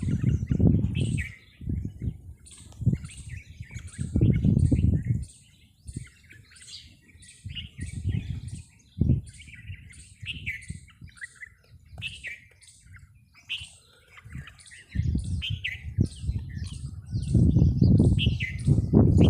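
Many small birds chirping and twittering, short calls repeating several times a second. Bursts of low rumbling noise come and go over them and are the loudest part, heaviest in the last few seconds.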